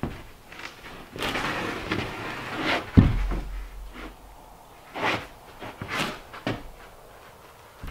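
Irregular knocks and thumps, with a scraping stretch about a second in that ends in a heavy thump at about three seconds, then a few sharper knocks later on.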